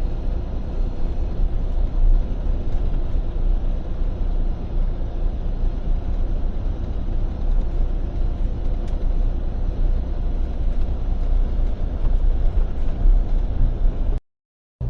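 Inside the cab of a Freightliner semi truck cruising on the highway: steady low engine drone with road and wind noise. The sound cuts off abruptly a little before the end.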